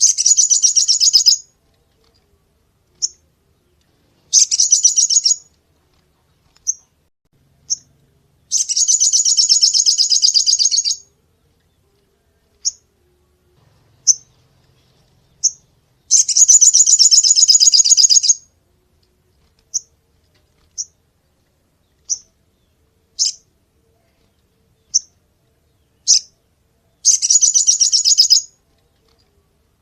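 A sogon sunbird singing: high, rapid machine-gun trills lasting one to two and a half seconds, five of them, with single sharp chips in the gaps between.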